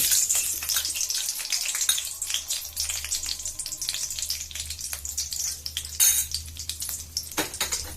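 Butter sizzling and crackling as it melts in hot frying oil in a pan, with a couple of louder bursts of spatter near the end.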